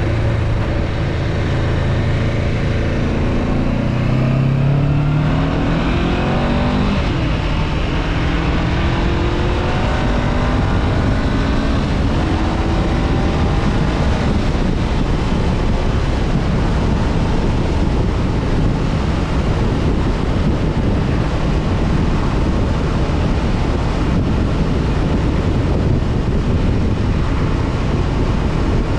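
Honda CB500F parallel-twin engine accelerating through the gears: its note rises, drops sharply at a shift about 7 seconds in, then climbs again. From about 14 seconds on, steady wind rushing over the microphone at cruising speed covers the engine.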